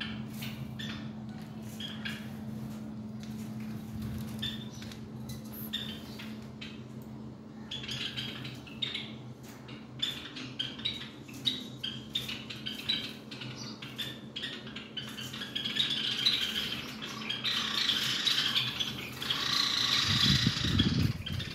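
Small birds chirping and cheeping in quick short notes, growing denser and louder over the last few seconds, over a steady low hum.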